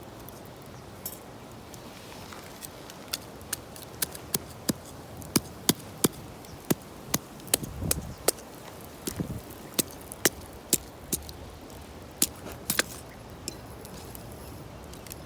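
Wood fire crackling: irregular sharp snaps and pops from the burning firewood, a few each second through the middle, over a low steady background, with a brief low rumble about halfway through.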